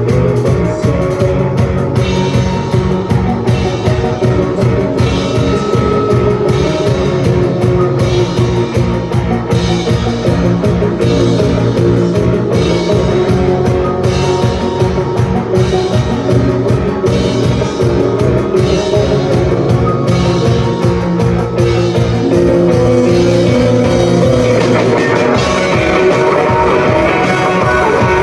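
Live rock band playing loud: electric guitars over a steady, driving drum beat. About 24 seconds in, the sound fills out with more bright guitar.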